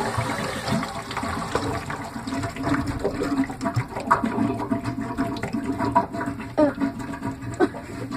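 Filled sink draining through newly worked drain pipes, water rushing with irregular gurgling and burping as air bubbles back up through the drain; the owner thinks the system may need more air let into it.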